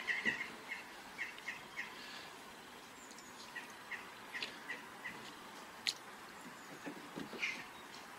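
A small bird chirps in short, high notes, in irregular runs over a faint steady background. A single sharp click comes about six seconds in.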